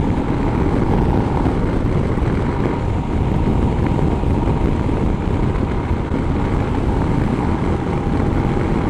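Steady wind rush over the microphone, with the running single-cylinder engine of a Royal Enfield Himalayan motorcycle underneath, at a steady road speed.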